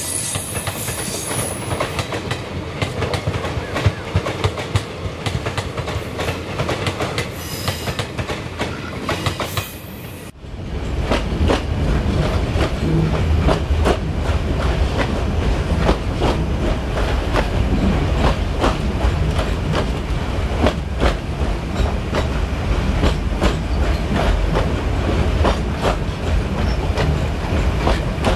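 Meter-gauge passenger train running, heard from an open coach door: wheels clicking over rail joints over a steady rolling rumble. About ten seconds in the sound changes abruptly to a louder, deeper rumble, the clicking going on.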